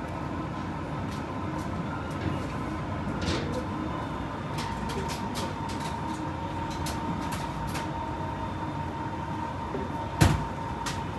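Steady background hum and hiss with scattered light clicks, and one sharp knock about ten seconds in.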